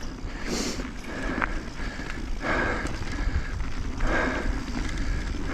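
Mountain bike ridden over a rocky dirt trail: tyre and frame noise with a steady low wind rumble on the microphone, and a rushing surge about every second or so.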